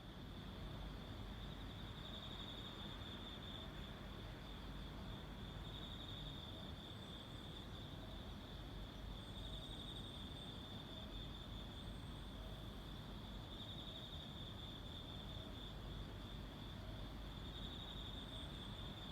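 Autumn insects singing at night: one continuous high, steady trill, with fainter calls of other insects coming and going over a low background hiss.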